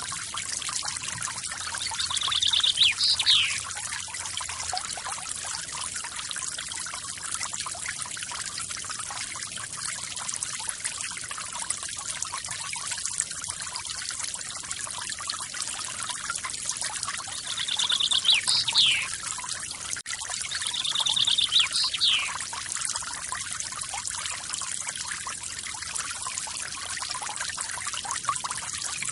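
Steady rushing and splashing of a small forest waterfall. Over it a bird calls three times, each call a short buzzy trill followed by a falling whistle: once a few seconds in, then twice close together later.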